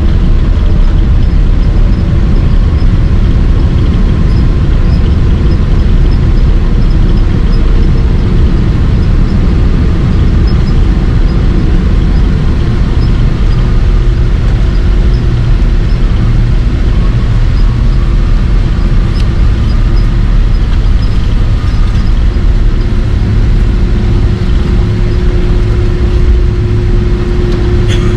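Loud steady rumble of a Boeing 767-300 jetliner with General Electric CF6 engines, with engine tones that slowly fall in pitch over the first several seconds and a steady hum that comes up in the second half.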